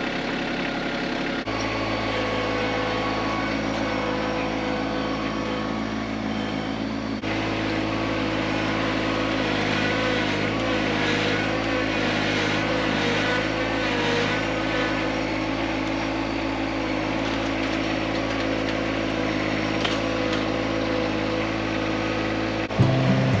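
Yanmar SA325 compact tractor's three-cylinder diesel engine running steadily while working the loader, its pitch wavering a little partway through. The sound changes abruptly about a second and a half in and again about seven seconds in.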